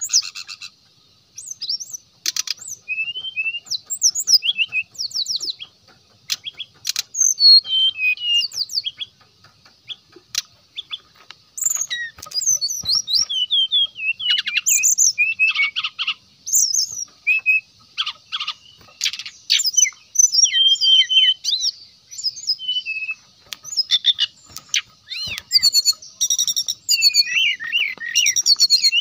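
Brown-chested jungle flycatcher singing: fast, varied runs of high chirps, clicks and slurred whistled notes, broken by short pauses.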